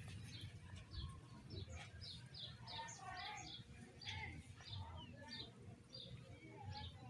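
Small birds chirping: a quick series of short, high chirps, about two a second, over a faint low rumble.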